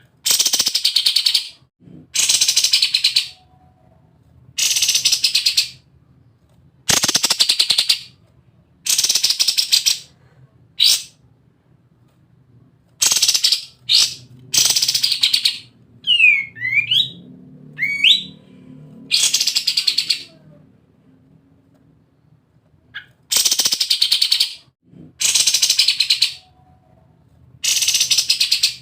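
Kapas tembak bulbul singing in its rattling 'ngebren' style: about a dozen loud, rapid machine-gun-like bursts of about a second each, with short pauses between. A few quick sliding whistle notes come midway.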